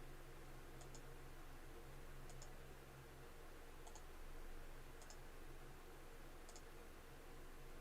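Computer mouse button clicked five times, about every second and a half, each click a quick press-and-release pair, over a faint steady electrical hum.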